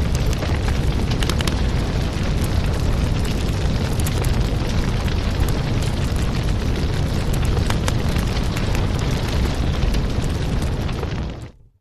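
Fireplace fire burning with a steady low roar and scattered sharp crackles and pops. The sound dips quickly to silence near the end.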